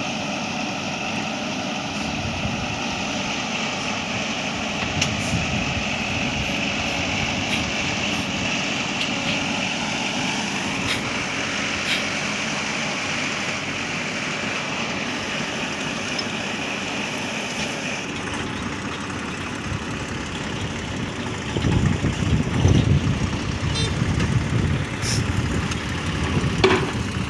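Heavy diesel machinery engine running steadily. About three-quarters of the way through it turns louder and more uneven, with a stronger low rumble.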